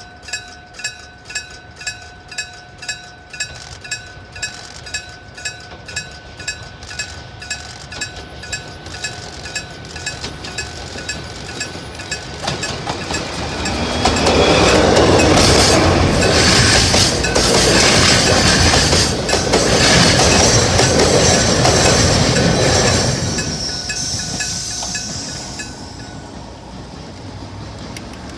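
Electric-bell (gong-type) level crossing bell ringing steadily, a little over two strikes a second. About halfway through, a diesel-hauled freight train passes over the crossing loudly for about ten seconds, covering the bell, then fades as the bell keeps ringing faintly.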